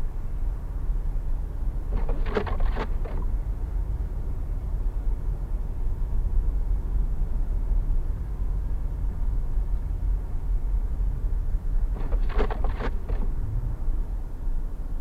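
Steady low road and engine rumble of a car cruising on a highway, heard from inside the cabin. Two short bursts of rapid clicks break in, about ten seconds apart.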